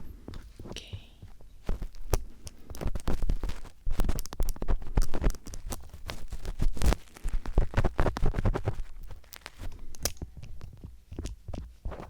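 Phillips screwdriver tip scraping and rubbing against the microphone in ear-cleaning ASMR: dense crackling scratches and clicks with low thumps, busiest in the middle and thinning out near the end.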